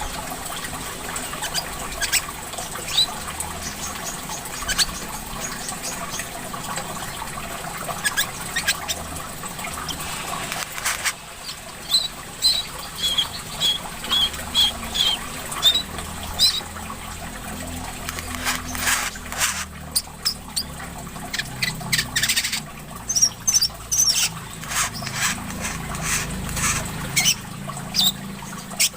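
Korlap sunbird chirping and twittering in short, quick high notes, with trickling water behind it.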